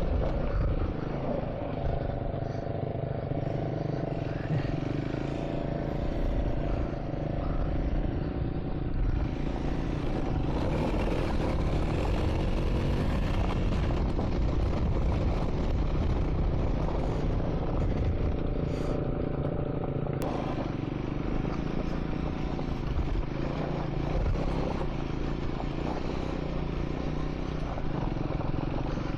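Triumph Scrambler 400 X single-cylinder engine running as the motorcycle is ridden over a dirt track, with some clatter from the rough surface.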